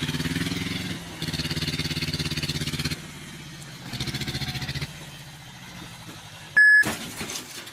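A motor vehicle engine running, rising in three pulsing spells of revving with quieter running between them. Near the end comes one short, loud, high beep.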